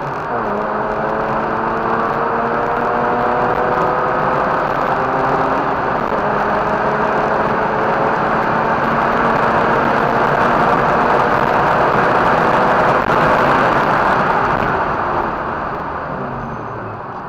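Mazda RX-8's two-rotor rotary engine pulling hard around the track, its pitch climbing steadily. The pitch steps down about six seconds in and climbs again, then the engine eases off near the end.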